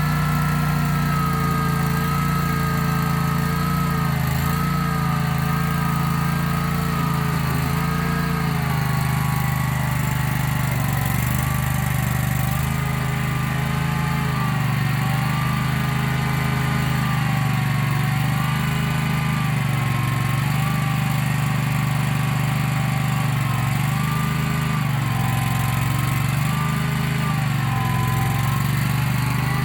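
Predator 670 V-twin gasoline engine of a repowered Bobcat mini skid steer, running steadily through its homemade black-pipe manifold and muffler. Its pitch dips and rises a little now and then.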